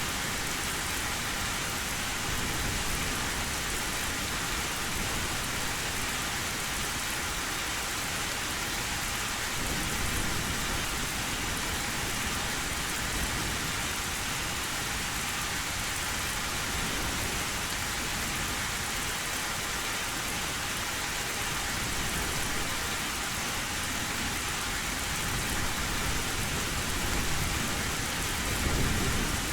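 Heavy rain drumming steadily on an old metal tin roof, with low thunder rumbling near the end.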